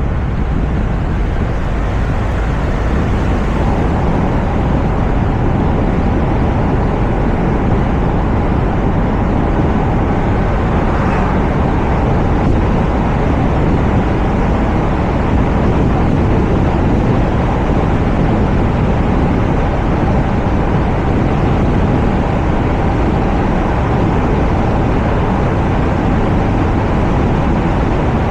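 Steady road and wind noise from a Toyota RAV4 driving at speed, picked up by a camera mounted on the car's roof: a constant low rush of tyres and air.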